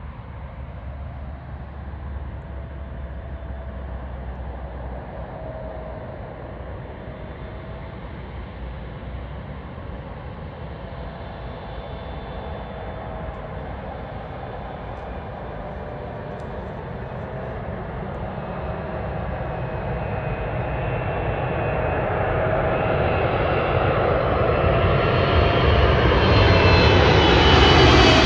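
Jet airliner's engines approaching, a rumble with a thin whine over it that grows steadily louder through the second half and is loudest near the end.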